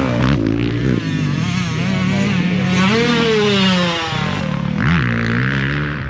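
Motocross dirt bike engine revving up and down while being ridden on a track. The pitch climbs to a peak about three seconds in, falls away near four seconds, and gives a quick dip and rise near five seconds.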